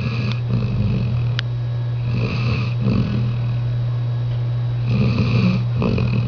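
Labrador dog snoring in her sleep, one snoring breath about every two to three seconds, over a steady low hum.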